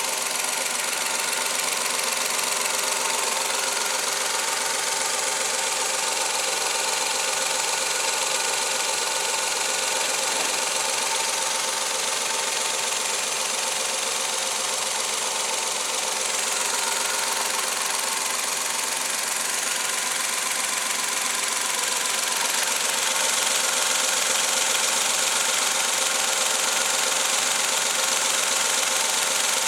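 Suzuki K6A 660 cc three-cylinder engine running steadily at idle, getting slightly louder about two-thirds of the way in.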